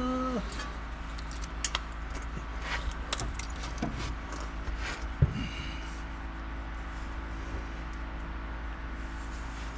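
Light metallic clinks and taps of bolts, a washer and tools against an exhaust flange as its bolts are being started, with one sharper knock about five seconds in, over a steady low hum.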